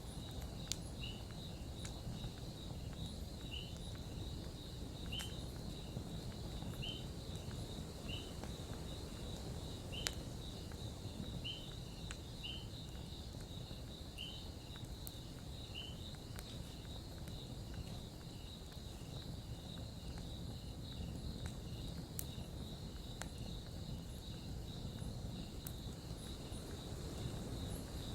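Campfire crackling, with sparse sharp pops over a steady low rumble. Insects trill steadily throughout, and a short chirp repeats every second or two.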